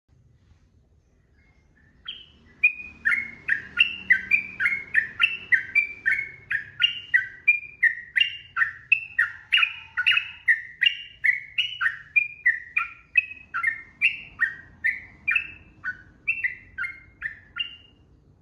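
Yellow-vented bulbul (trucukan) singing a long unbroken run of quick, liquid chattering notes, about two a second, starting about two seconds in and stopping just before the end.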